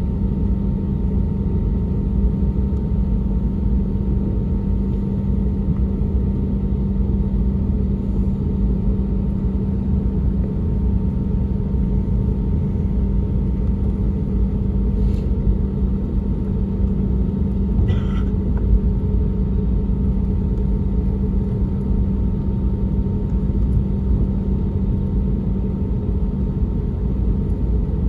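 Steady, loud cabin rumble inside an Airbus A320neo with its CFM LEAP-1A engines running and a constant low hum, unchanging in level.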